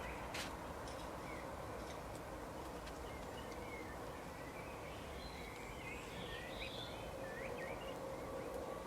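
Small birds chirping in short, high calls over a steady background hiss, the chirping busiest in the second half, with a single sharp click just after the start.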